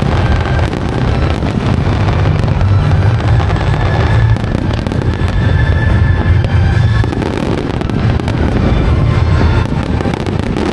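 Aerial fireworks display going off continuously: a steady low rumble of shell bursts with dense crackling on top.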